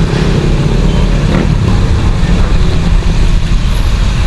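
Motor vehicle engine running close by, a loud, steady low rumble.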